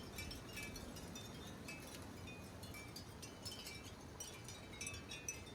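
Wind chimes tinkling irregularly as the wind swings them, faint, with a steady low rush of wind underneath.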